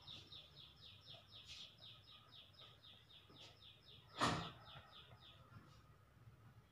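A faint bird call: a fast, even series of short falling notes, about five a second, that stops a little after five seconds in. A single sharp knock about four seconds in is the loudest sound.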